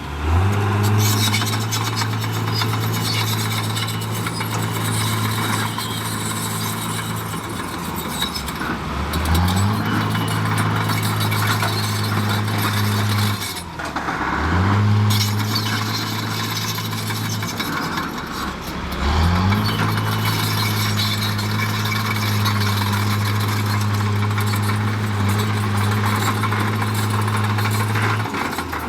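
Heavy diesel engine of earthmoving machinery revving up and holding under load, then easing off, four times in a row, over steady mechanical noise.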